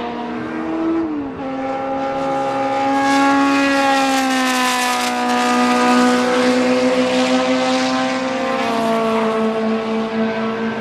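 BMW M12/7 2.0-litre four-cylinder Formula 2 racing engine running at high revs. Its pitch dips about a second in, then rises slightly and grows louder through the middle before easing back to a steady note.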